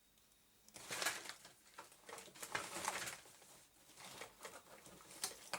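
Rustling and clicking handling noises, irregular, loudest between about one and three seconds in, with a sharp click near the end: equipment and cables being handled while a monitor is set up.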